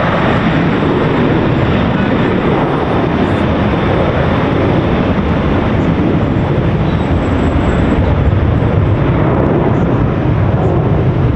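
Jet airliner's engines: loud, steady noise without a clear rise or fall.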